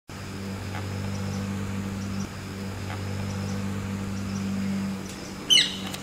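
A steady low hum runs under faint, high chirps that repeat throughout. About five and a half seconds in comes one loud, short, shrill bird call.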